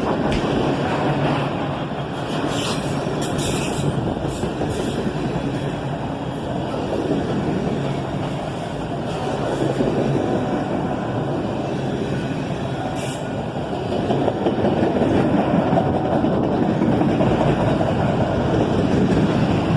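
A freight train of empty auto-rack cars rolling past as it slows, a steady rumble of wheels on the rails. A few brief higher-pitched noises come from the train a few seconds in and again about two-thirds of the way through.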